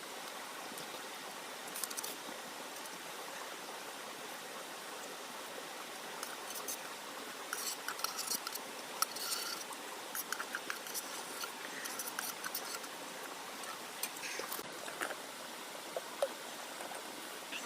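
Steady hiss of rain, with scattered small clicks and light rustles through the middle.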